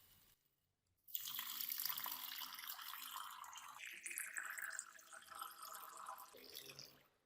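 Water running and splashing, starting about a second in after a short silence, with a hissing tone that slowly falls in pitch through the middle.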